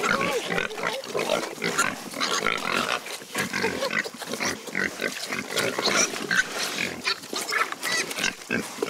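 A group of farm animals feeding and jostling, their short calls and noises overlapping continuously, with scuffles as they fight over the food.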